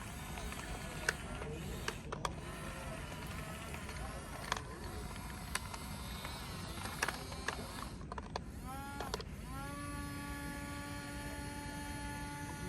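Small electric motor of a toy construction vehicle: scattered plastic clicks and knocks, then near the end the motor briefly whirs up, starts again and runs at a steady whine for about three seconds.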